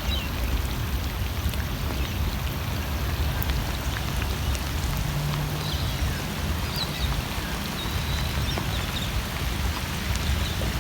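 Steady rain falling, an even hiss with no break, with a few faint high chirps over it.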